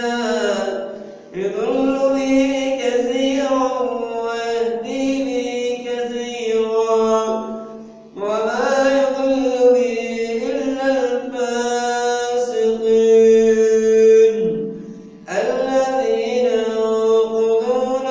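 A man reciting the Quran in a slow melodic chant, holding long drawn-out notes. Three phrases are broken by short pauses for breath, about a second in, about eight seconds in and about fifteen seconds in.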